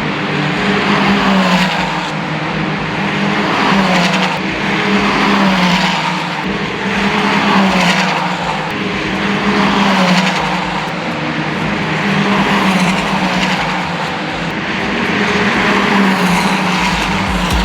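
Racing car engine running hard on track: a steady loud drone with falling pitch sweeps every couple of seconds.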